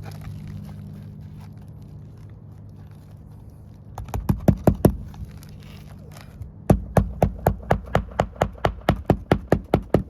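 Hammer nailing down roof shingles: a quick run of about eight blows some four seconds in, then a steady series of about five blows a second through the last three seconds. A steady low hum runs underneath.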